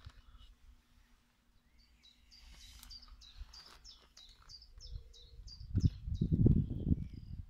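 A bird singing a run of quick repeated high chirps, about three a second, for a few seconds. Near the end, a louder low rumble.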